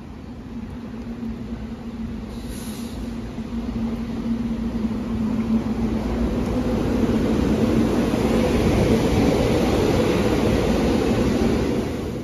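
SEPTA Silverliner IV electric multiple-unit train approaching and pulling in alongside the platform. A steady motor hum rides over wheel-and-rail rumble, and both grow louder as the train draws close.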